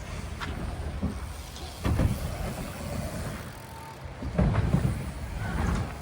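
Bike riding at a dirt-jump park: a low rumble of tyres and wind on the microphone, with two louder surges about two seconds and four and a half seconds in.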